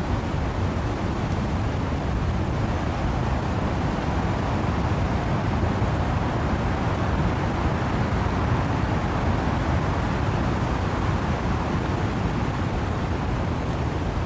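Steady wind and rain in trees: a dense, even rush with a deep low rumble and no separate drops or gusts standing out, swelling slightly about halfway through.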